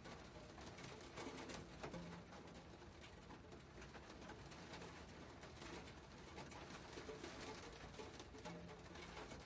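Faint patter of raindrops as many small scattered ticks, with a dove cooing low twice, about two seconds in and near the end.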